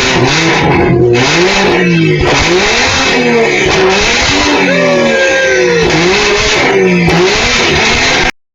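A car engine revved over and over, its pitch climbing and dropping about once a second in quick throttle blips. It cuts off suddenly near the end.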